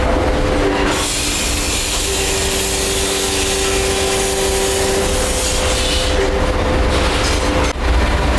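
Heavy metalworking machinery running in a brass pipe factory: a steady rumble with a hum of several held tones, and a loud hiss that comes in about a second in.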